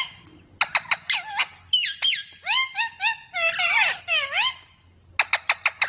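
Baby parrots calling: quick runs of short, sharp squeaks and longer harsh calls that swoop down and then back up in pitch, with a short pause before a final burst of squeaks near the end.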